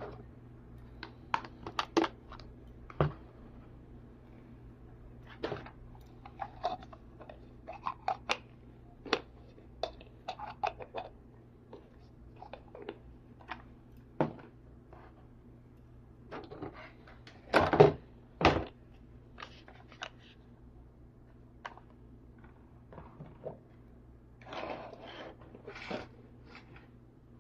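Small plastic toy kitchen pieces and their packaging being handled: irregular clicks, taps and brief crinkles, with a louder clatter about two-thirds of the way through.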